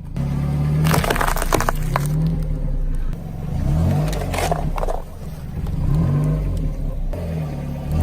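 Several sharp crunches and cracks of objects being crushed, about a second in and again near the middle, over a low rumble that keeps rising and falling in pitch.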